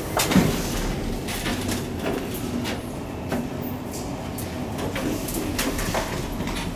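KONE Monospace glass elevator's automatic sliding doors running, with a sharp knock about a third of a second in and scattered clicks throughout.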